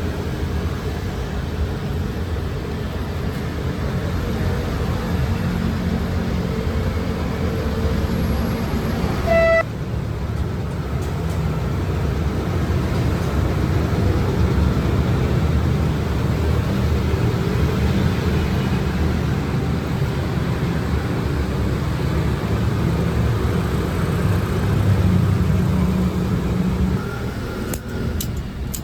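A steady low motor hum, with a short horn toot about ten seconds in.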